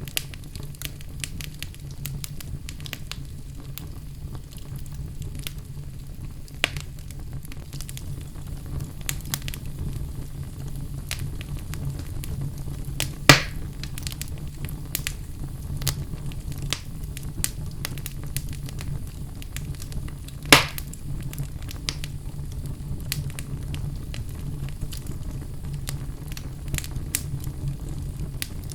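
Fire burning in a fireplace: a steady low rumble with constant small crackles, and two louder pops, one a little before halfway and one about two-thirds of the way through.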